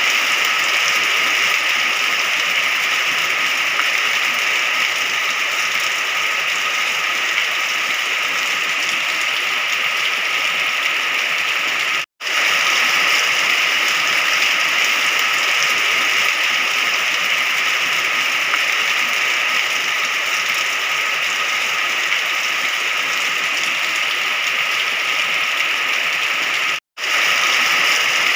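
Steady heavy rain, an even hiss with no thunder. It cuts out to silence for a split second twice, about twelve seconds in and again near the end.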